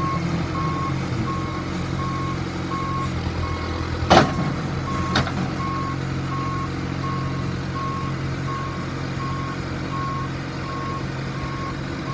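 John Deere 410D backhoe's diesel engine running steadily while its reverse alarm beeps about two to three times a second. A loud clunk comes about four seconds in, and a lighter one a second later.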